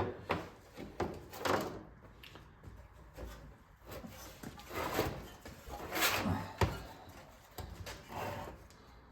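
Scattered knocks, clunks and rubbing of parts and tools being handled on a workbench, about half a dozen separate short sounds.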